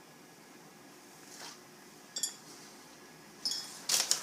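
Juniper berries dropped into empty glass canning jars, making a few light glassy clinks, with a louder cluster of clinks near the end.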